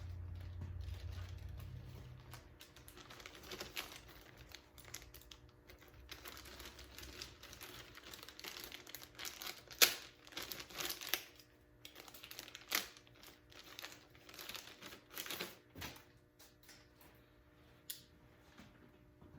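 Hand work on an engine's cylinder head: scattered clicks, light clinks and rustling as parts and nuts are handled and started onto the studs, with one sharp click about ten seconds in.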